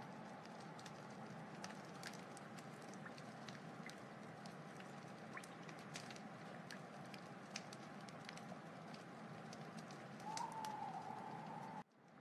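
Wood fire crackling: a steady soft hiss with many small scattered pops and snaps. Near the end a thin whistling tone from the burning wood swells briefly, then the sound cuts off abruptly for a moment.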